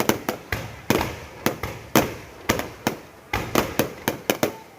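Fireworks going off: an irregular, rapid string of sharp bangs, roughly three a second, each fading quickly after the crack.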